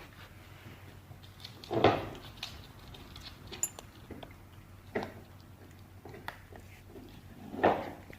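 A Shiba Inu chewing and biting at a toy, with a few short, loud sounds about two seconds in and again near the end.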